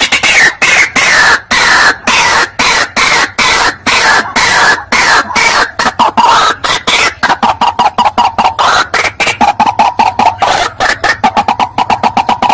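White-breasted waterhen (ruak-ruak) calls from a bird-lure recording: a loud, rapid run of harsh repeated notes, about five a second, going on without a break.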